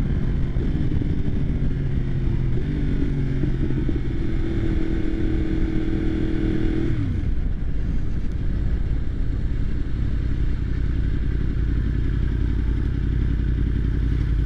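Motorcycle riding at a steady speed with its engine note held, then dropping in pitch about halfway through as the rider rolls off the throttle. After that there is mostly a steady low rumble.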